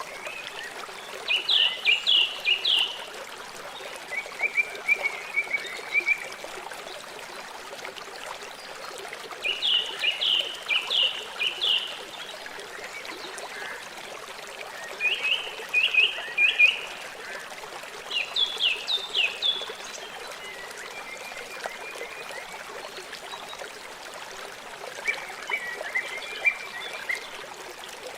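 River water flowing steadily, with about seven short series of rapid, high-pitched chirping calls from a small animal breaking in over it every few seconds.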